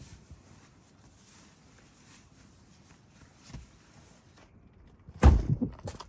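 A faint knock, then about five seconds in a single loud, heavy thump followed by a short clatter of smaller knocks.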